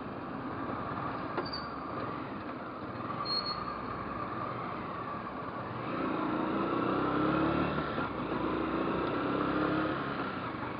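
Motorcycle riding noise of engine, tyres and wind. It grows louder about six seconds in, with a steady engine tone that holds for about four seconds before easing.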